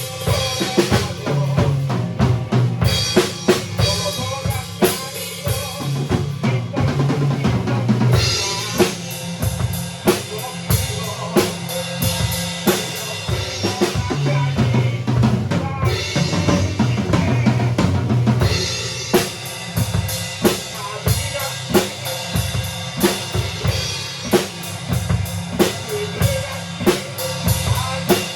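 A band playing in a rehearsal studio, led by a drum kit with bass drum and snare hits keeping a steady beat under sustained pitched instruments.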